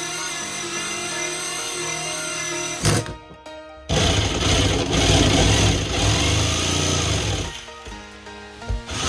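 Background music; partway through, a handheld power tool runs on metal for a few seconds, then stops.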